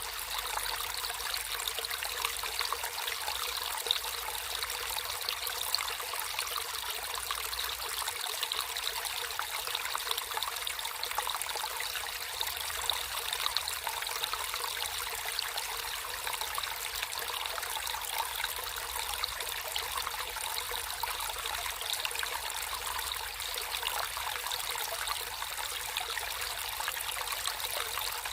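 Water in a small natural stream flowing and trickling steadily.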